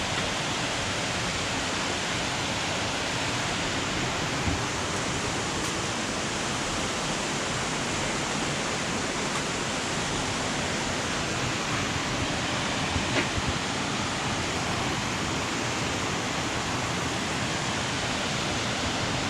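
Steady rush of flowing water from a creek and waterfalls, an even hiss with no change in level, with a few faint taps about two-thirds of the way through.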